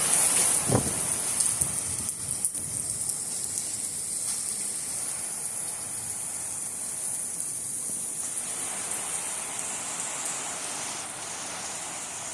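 Heavy thunderstorm rain falling steadily, a dense hiss of drops on surfaces, a little louder in the first couple of seconds.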